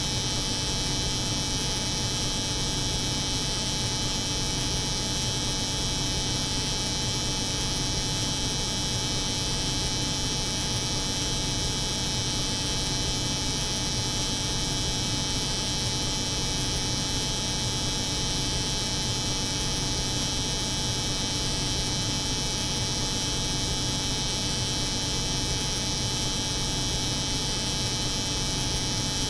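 Layered steady drone of an electric hair clipper buzzing over a cold room's refrigeration hum, unchanging throughout.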